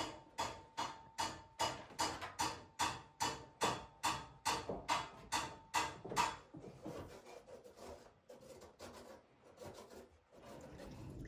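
Rhythmic rasping scrapes, about two or three a second for some six seconds, then slower, softer, irregular scraping.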